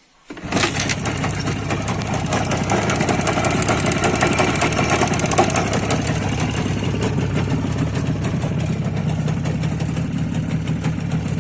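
IZH Jupiter 5 two-stroke twin-cylinder motorcycle engine catches about half a second in and then idles steadily, with a ringing from the left cylinder that the owner takes for a piston starting to seize.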